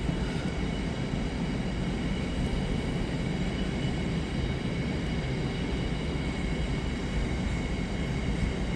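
Empty aggregate wagons of a freight train rolling steadily past, wheels running on the rails, with a faint steady high-pitched ring over the running noise.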